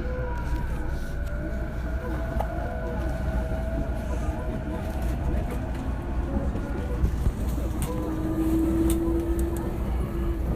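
JR East E233-0 series electric train running, heard from inside the car: a steady low rumble under thin electrical whining tones that slowly rise in pitch, with scattered sharp clicks from the wheels on the track.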